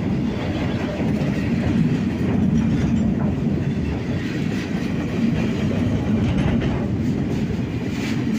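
Freight train cars loaded with rails rolling past, with a steady rumble and wheels clicking over the rail joints.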